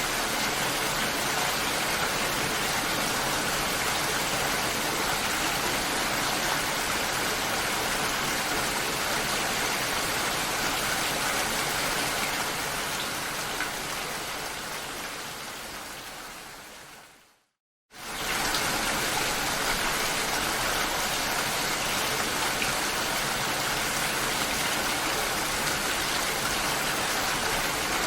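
Steady rain, an even hiss spread across the whole range. About twelve seconds in it fades out smoothly over several seconds and falls silent for about half a second, then a steady rush of the same kind comes back quickly and runs on.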